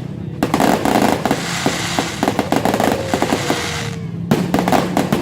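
Fireworks going off in rapid volleys of sharp crackling reports, many close together, with short breaks just after the start and about four seconds in.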